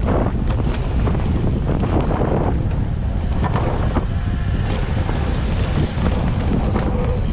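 Wind buffeting the microphone of a camera on a mountain bike descending fast, a steady low rumble, with scattered clicks and rattles from the bike over rough ground.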